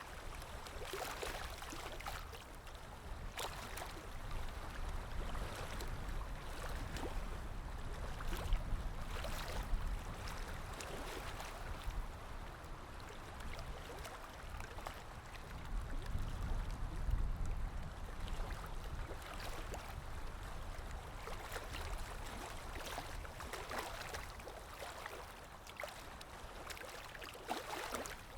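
Paintbrush strokes scrubbing and swishing on watercolour paper, uneven and irregular, over a low rumble.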